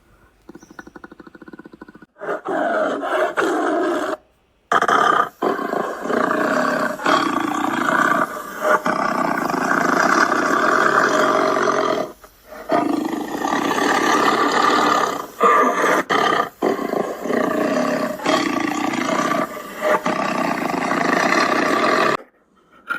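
A big cat roaring and growling in several long, loud stretches, broken by brief silent gaps.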